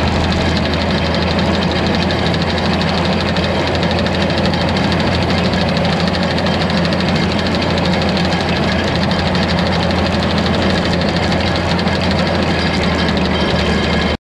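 Old tractor engine running steadily at a constant speed.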